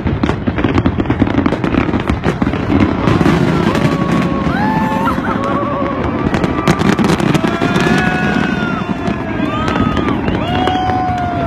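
Fireworks bursting and crackling in a dense run. From about four seconds in, a crowd's shouts and whoops rise over them.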